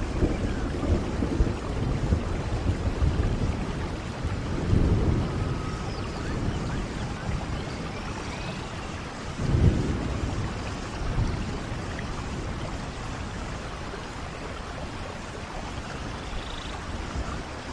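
Steady rainfall with low rumbles of thunder rolling through, the loudest a little past halfway.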